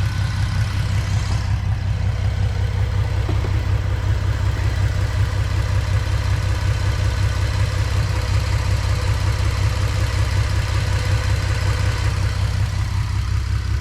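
Car engine idling steadily after a bad spark plug was replaced. The tapping is gone, but a light tick remains, which the owner suspects could come from the spark plugs on the other side.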